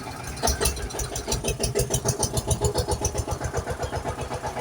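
A vehicle engine starts about half a second in, then runs with a fast, even chugging. It is loudest for a couple of seconds, then eases back toward idle.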